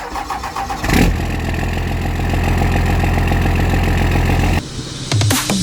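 Vehicle engine running loud at steady high revs, cutting off abruptly about four and a half seconds in. Electronic music with a heavy beat comes in near the end.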